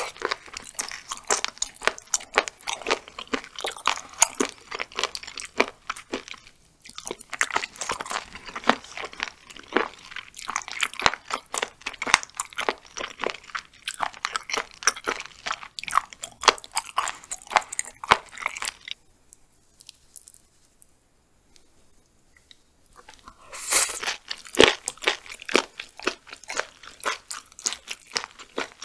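Close-miked, wet, crunchy chewing of seasoned raw chicken (gizzard and feet cartilage), a rapid run of crisp crunches. The crunching stops for about four seconds two-thirds of the way in, then starts again with a fresh bite.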